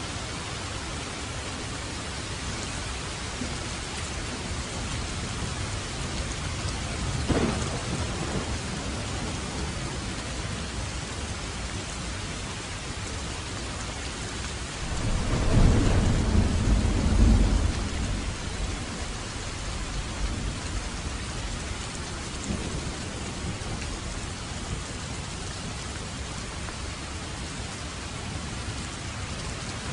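Steady rain falling, with a short crack of thunder about seven seconds in and a louder, low rumble of thunder lasting about three seconds around the middle.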